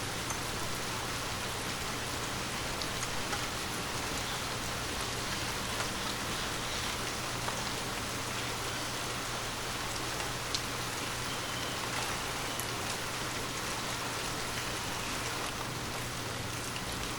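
Steady rain falling, an even hiss with a few scattered sharper drop ticks.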